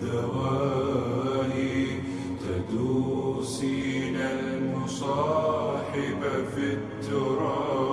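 A female voice singing an Arabic song unaccompanied or nearly so, in long held, wavering melismatic notes with no clear words, pausing briefly for breath between phrases.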